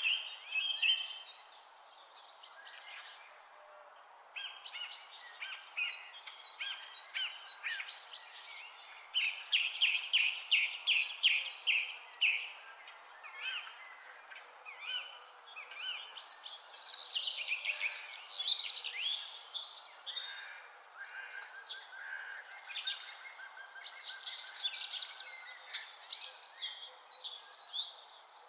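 Several songbirds singing and calling at once: quick chirps, trills and fast runs of repeated notes, with a brief lull a few seconds in, over a steady faint background hiss.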